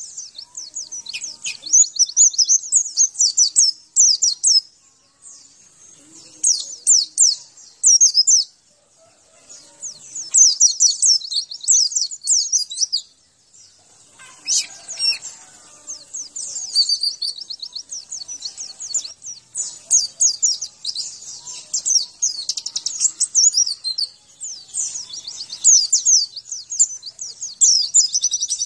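White-eye (pleci) song: rapid, high, chattering twittering phrases of several seconds each, broken by short pauses.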